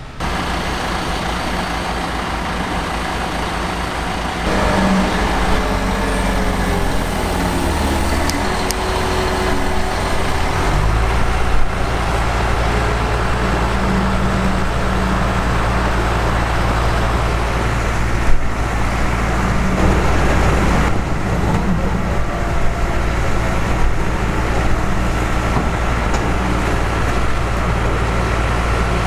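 Heavy diesel machinery running steadily. It gets louder about four seconds in and again about eleven seconds in, and a whine wavers in pitch between about five and ten seconds in. A single sharp knock comes near the middle.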